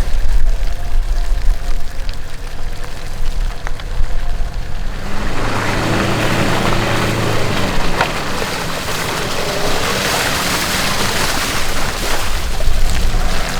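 Off-road 4x4 engine working under load with a steady low rumble. About five seconds in, a loud rush of noise rises over the engine, which keeps running beneath it.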